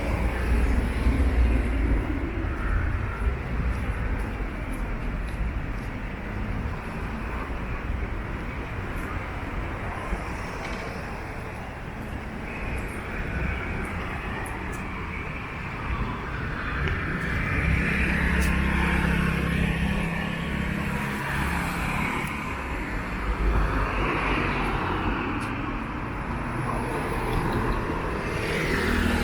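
City road traffic: a steady noise of cars, with louder vehicles passing near the start and again about two-thirds of the way through.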